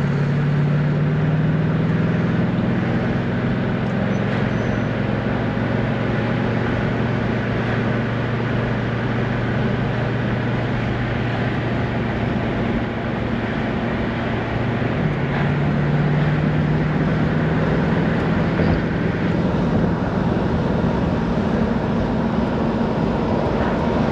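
1968 AMC AMX's 390 V8 running under way, with road noise, heard from inside the cabin. The engine note climbs slowly, dips a little past halfway, then picks up and climbs again.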